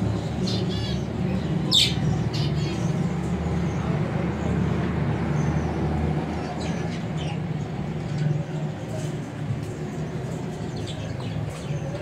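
Small aviary birds chirping and squawking in short calls, most in the first few seconds and again in the second half, over a steady low hum.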